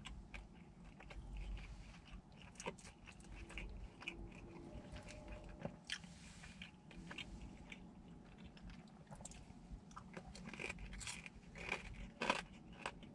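A person chewing a mouthful of bacon-wrapped deep-dish pizza, quiet crunching with many small crackles and mouth clicks.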